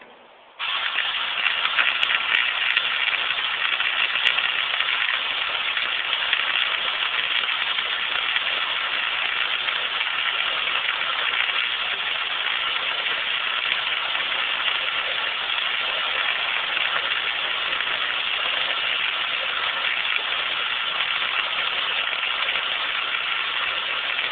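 Electric arc welder crackling steadily as a filler weld is run to close a hole in sheet metal. It strikes about half a second in, holds one continuous bead, and cuts off sharply at the end.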